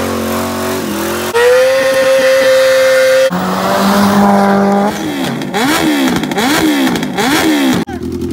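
Vehicle engines in quick cuts: a car engine held at high revs during a tyre-smoking burnout, steady engine drones, then an engine revved up and down about four times in quick succession.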